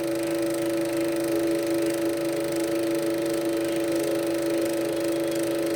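Elmo Super 8 sound projector running, its mechanism whirring steadily with a constant hum.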